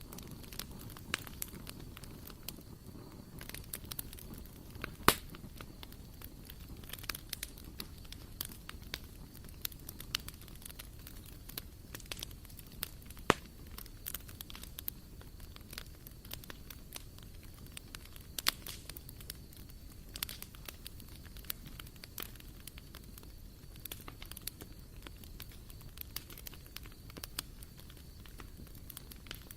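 Wood fire burning in a barbecue grill, crackling with frequent sharp pops over a low steady rumble; the loudest pops come about five, thirteen and eighteen seconds in.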